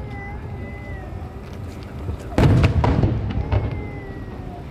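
Fireworks shell bursting with a loud boom about two and a half seconds in, followed by a couple of smaller bangs and a fading rumble.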